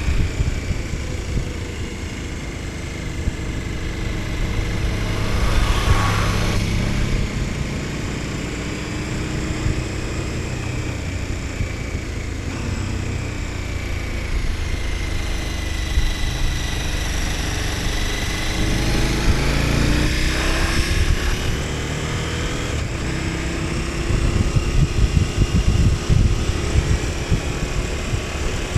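KTM 1290 Super Adventure S's V-twin engine running under way, its pitch rising and falling with throttle and gear changes, over a heavy rumble of wind on the microphone.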